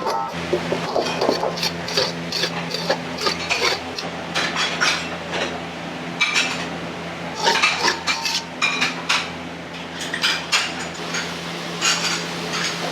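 Restaurant kitchen clatter: metal pots, utensils and dishes knocking and clinking many times in quick, irregular succession over a steady low hum.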